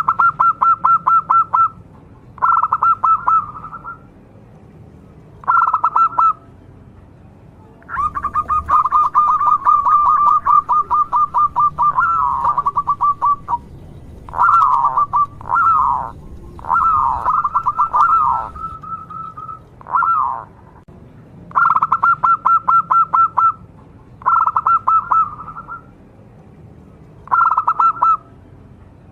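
Zebra dove (local perkutut) singing: phrases of rapid, staccato cooing notes about a second long, repeated with short pauses, plus one long run of several seconds and a few shorter swooping notes in the middle.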